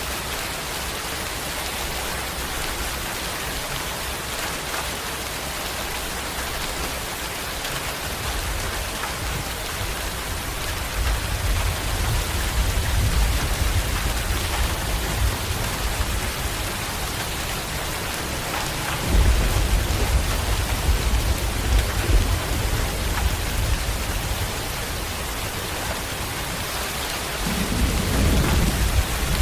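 Steady rain falling, with rolling thunder. A long low rumble builds about a third of the way in, a stronger one breaks in suddenly about two-thirds through, and another rumble starts near the end.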